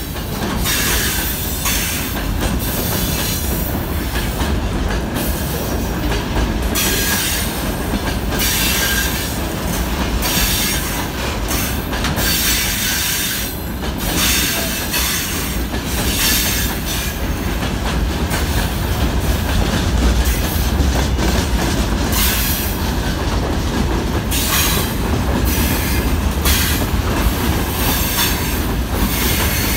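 Freight train of open gondola wagons rolling past at close range: a steady rumble of steel wheels on the rails, with a repeated sharp clatter as the wheelsets cross rail joints.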